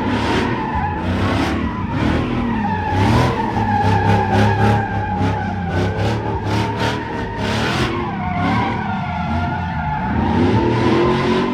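Ram pickup truck sliding with its tires squealing under an engine revving up and down, the revs dipping and climbing again near the end.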